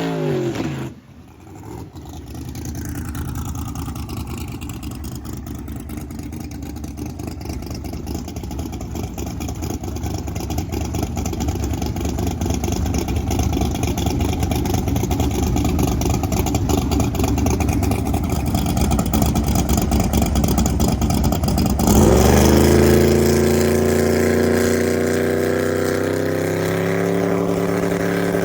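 Drag car's V8 engine running steadily and slowly building, then about three-quarters of the way through it launches hard, its pitch climbing steeply as the car accelerates, with a second climb near the end.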